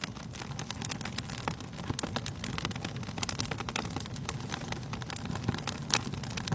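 Wood fire crackling: irregular sharp pops and snaps over a low steady rumble of burning, with one louder pop about six seconds in.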